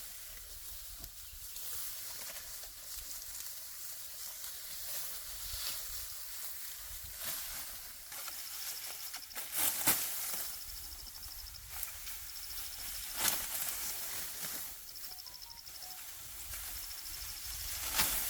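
Outdoor hillside ambience: a rustling hiss with scattered sharp swishes and crackles, like dry stalks or leaves being handled, over low wind rumble on the microphone. From about halfway, an insect trills in short buzzing bursts that repeat every second or so.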